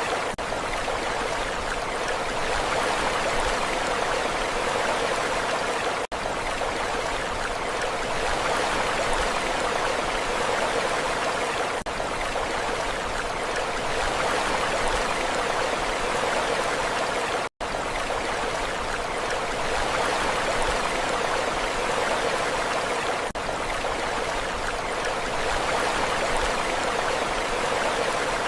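Steady rushing water, an even hiss-like roar with no rise and fall of waves, broken by a few brief dropouts about every six seconds.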